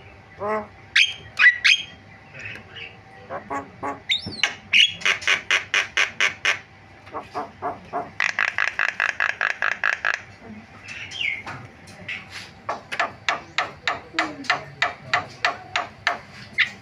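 Javan myna singing a varied song: sliding whistles, fast runs of repeated notes, and a harsh buzzy rattle about eight seconds in.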